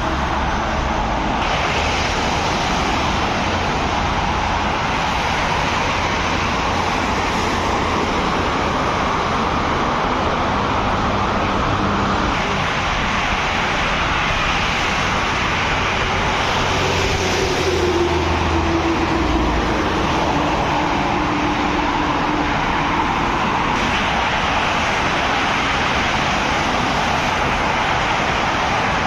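Road traffic: heavy vehicles and cars driving past in a steady stream, with engine hum and tyre noise, and one vehicle's tone sliding down in pitch just over halfway through.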